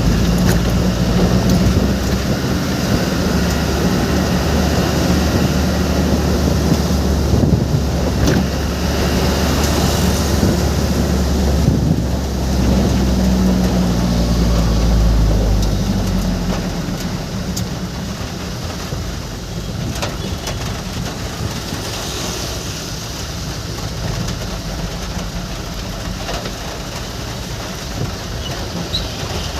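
Vehicle engine running with a steady hiss of road and rain noise while driving in the rain; the low engine hum is strong for the first half, then drops away about halfway through, leaving mostly the rain and road hiss.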